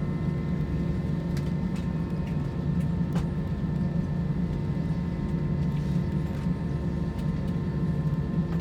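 Steady engine and airflow noise heard inside the passenger cabin of an Airbus A320-200: a low, even rumble with several steady whining tones over it and a few faint ticks.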